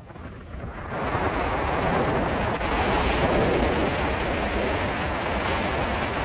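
Cyclone-force wind buffeting the microphone in a loud, steady rush with heavy low rumble, gusting up about a second in.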